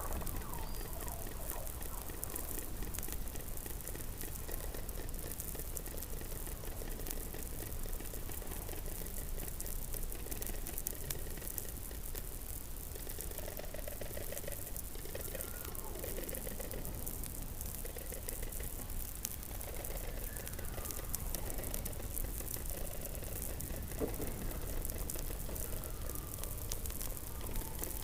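Underwater hydrophone recording beneath Antarctic sea ice: a steady low rumble and hiss, with faint animal calls over it. These are falling whistles and, partway through, a few pulsed trills.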